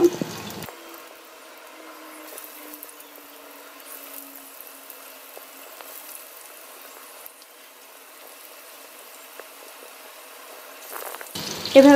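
Masoor dal fritters frying in hot oil in a pan: a faint, steady sizzle with small crackles.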